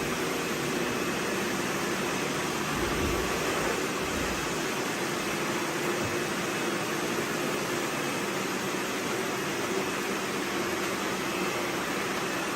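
Steady whirring hiss of many robot vacuums running at once, with a faint steady hum and a brief low rumble about three to four seconds in.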